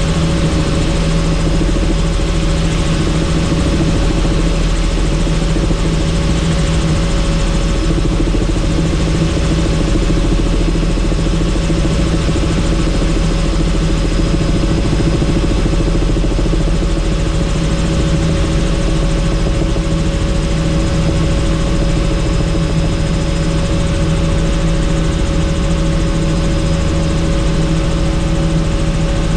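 Helicopter in flight heard from on board: the rotor and engine run with a steady drone and constant tones, unchanging throughout.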